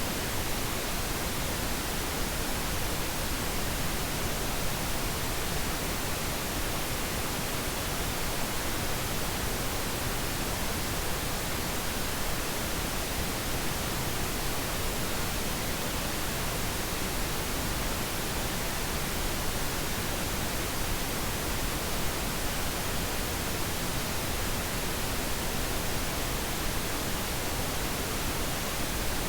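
Steady synthetic pink noise, an even hiss and rush across all pitches with no change in level.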